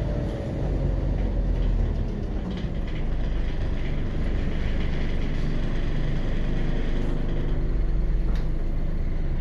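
Inside a Scania CN94UB Omnicity city bus: its Scania DC9 five-cylinder diesel runs steadily, mixed with cabin noise and rattles.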